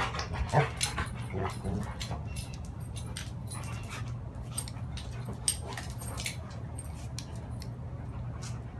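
A dog panting and whimpering, with short sounds in the first two seconds, then scattered light ticks over a steady low hum.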